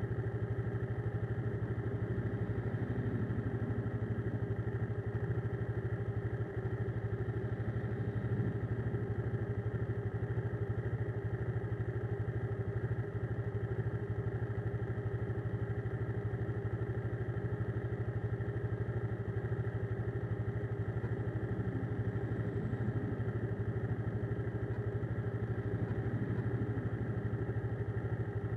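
Motorcycle engine idling steadily with the bike standing still.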